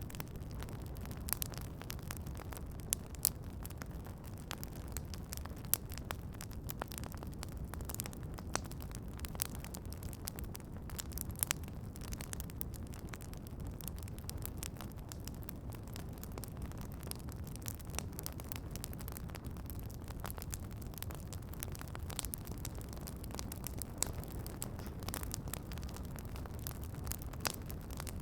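Campfire crackling: irregular sharp snaps and pops, with a louder pop every few seconds, over a steady low rumble.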